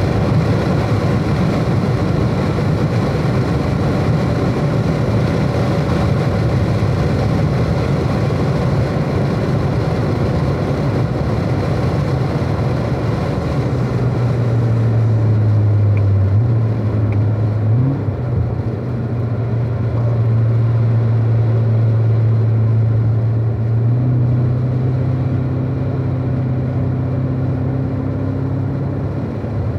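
Chevrolet Corvette C7 Z06's supercharged 6.2-litre V8 running at low revs under light load as the car slows, with wind and tyre noise heard from inside the car. In the second half it settles into a steady low drone, and its pitch jumps up briefly twice as it shifts down from 7th to 5th gear.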